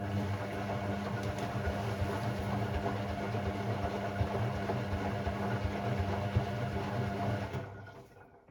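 Hoover Sportswear 1300 washing machine running on its Delicate 15 cycle: a steady motor hum with churning and rattling that cuts off about seven and a half seconds in.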